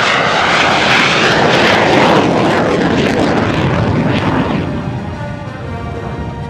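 Formula 1 class racing airplane, a small single-seat propeller plane with a 100 hp Continental O-200 engine, flying past loud and close; the engine noise swells at once, peaks in the first two seconds and dies away after about four and a half. Background music plays underneath.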